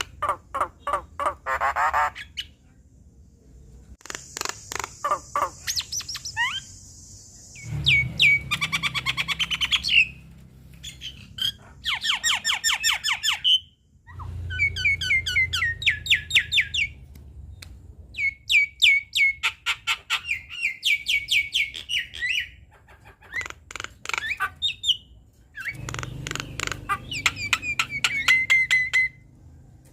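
Javan myna singing a varied, chattering song of fast repeated notes, harsh squawks and slurred whistles, in bursts of a few seconds separated by short pauses.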